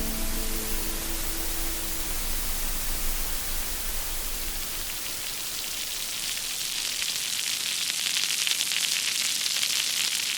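A steady hiss of static-like noise, with the last notes of background music fading out in the first two seconds. The hiss grows louder and takes on a fine crackle in the last few seconds.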